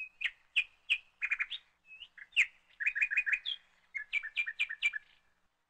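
A small bird chirping: a string of short, high chirps, some in quick runs of three or four.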